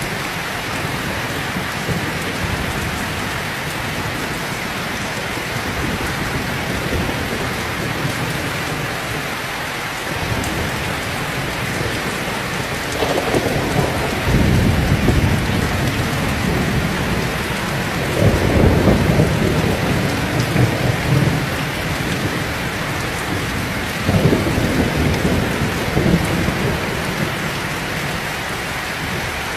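Heavy rain falling steadily, with three long low rolls of thunder in the second half that rise above the rain.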